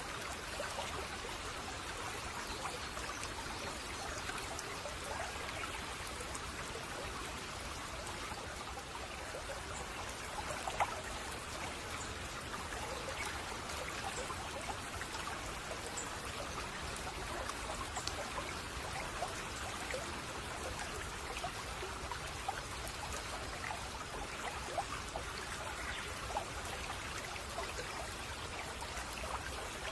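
A small stream babbling and trickling steadily, with scattered small splashes of water.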